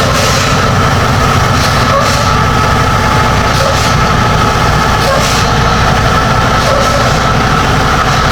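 Semi truck's engine and road noise heard inside the cab while driving, a steady, even drone.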